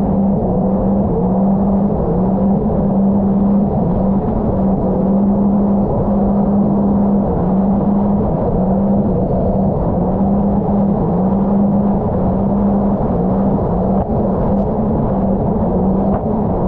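A Sea-Doo RXP-X 300 jet ski's supercharged three-cylinder Rotax engine running steadily under way, its tone wavering slightly, over a constant rush of noise.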